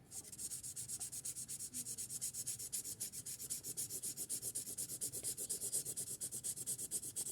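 Fine tip of a felt marker scratching across paper in rapid short back-and-forth strokes, about eight a second, as an area is coloured in.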